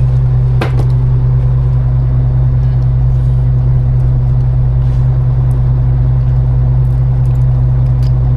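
Fishing boat's engine running steadily, a loud, even low hum, with one sharp knock less than a second in.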